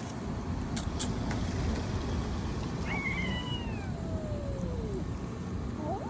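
A domestic cat meowing: one long meow about three seconds in that slides down in pitch over about two seconds, and a second meow starting near the end, over a steady low background rumble.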